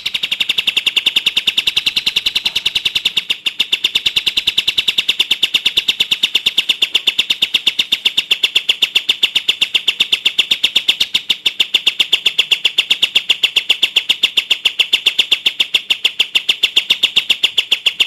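Songbird call: a long, fast, even run of sharp repeated high notes, many a second, kept up without a break.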